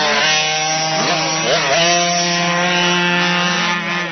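Motocross motorcycle engine running at high revs, blipped up and down a couple of times early on and then held at a steady buzzing pitch.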